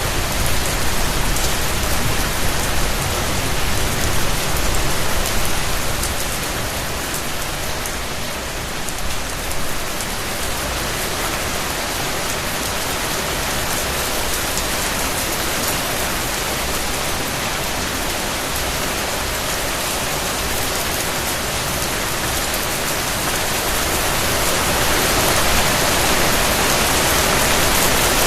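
Steady rain falling on a surface: an even hiss of many raindrops, easing a little about a third of the way in and swelling again near the end.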